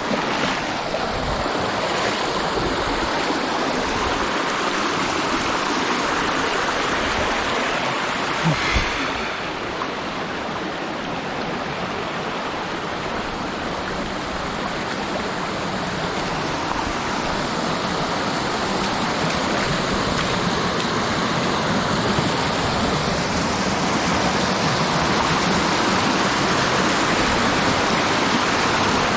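Mountain stream water rushing over rocks, steady, growing a little louder toward the end. A couple of sharp knocks come about nine seconds in.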